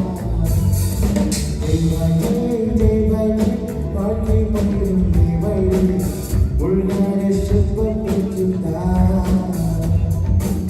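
A band playing with a singer: music with a sung vocal line.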